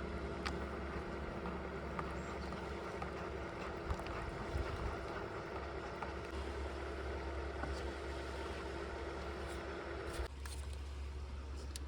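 A steady mechanical hum with a constant tone, which cuts off suddenly about ten seconds in, leaving a lower hum underneath.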